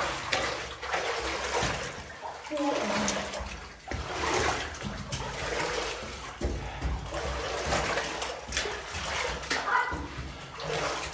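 Footsteps splashing and sloshing through shallow water in a tunnel, irregular and continuous.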